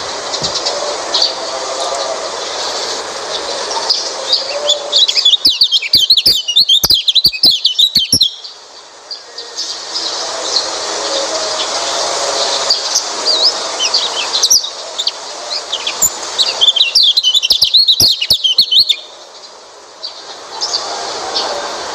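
White-eye (pleci) song recording: steady high twittering chirps throughout, with two loud bursts of rapid, dense warbling twitter, about a quarter of the way in and again about three quarters through.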